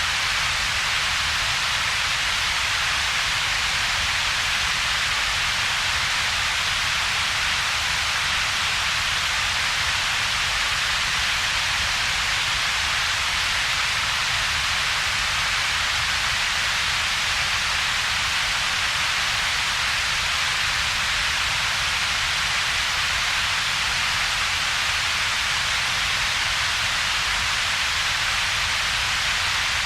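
Synthetic double-peaked coloured noise: a steady, unchanging hiss centred in the upper mids, over a separate low rumble band, with a dip between them. It sounds much like steady rain.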